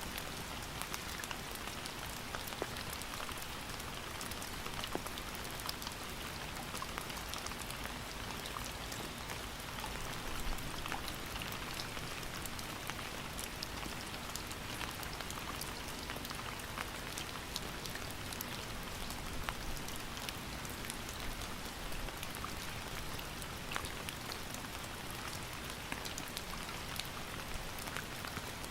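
Steady rain falling, with a constant hiss and many individual drops ticking on a surface.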